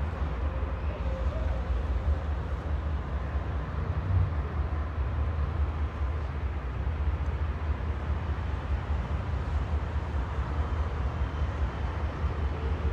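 Diesel freight train running with a steady low rumble.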